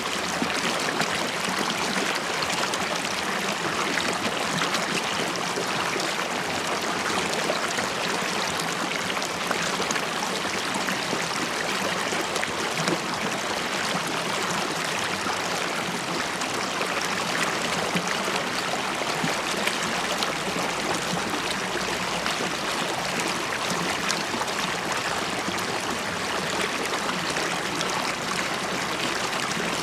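River water running and bubbling over stones, a steady rushing babble.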